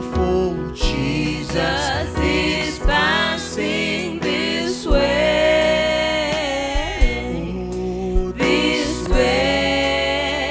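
Gospel music: sung voices holding long wavering notes over a steady bass and drum beat.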